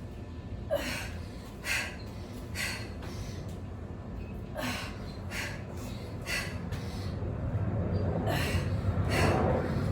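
A woman breathing hard and gasping after exertion, short sharp breaths about a second apart in a few runs, out of breath from push-ups.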